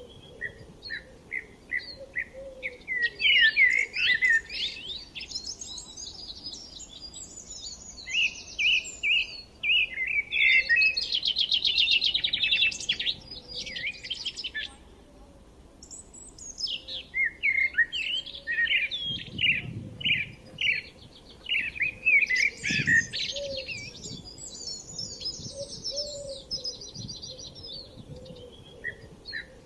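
Several songbirds singing at once, overlapping rapid chirps and trills, with a short lull about halfway through.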